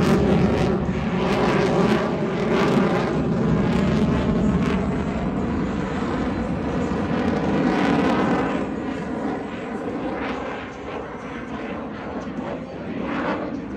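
Loud jet roar of the F-22 Raptor's two Pratt & Whitney F119 turbofan engines in flight, with a faint steady whine over the rumble, fading noticeably after about eight seconds as the jet draws away.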